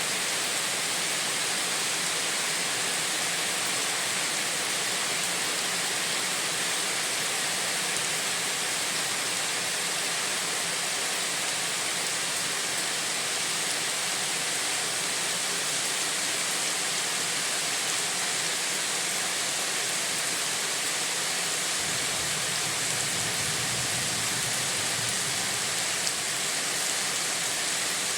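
Steady rain, a dense even hiss of falling water. A low rumble joins for a few seconds about three-quarters of the way in.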